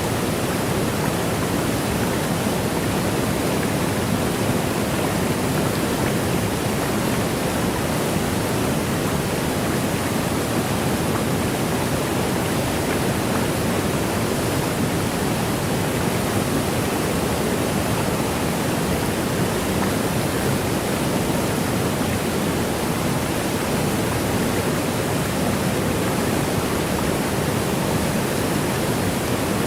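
Waterfall rushing in an even, unchanging stream of noise, deepest in the low-middle range.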